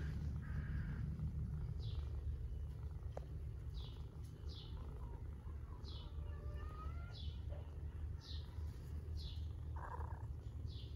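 A bird repeating a short, high, falling chirp about once a second, over a steady low rumble.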